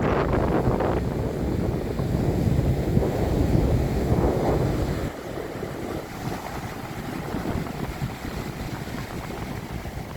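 Strong storm wind buffeting the microphone over the rush of stormy sea surf. The gusting is heavier for the first five seconds, then eases.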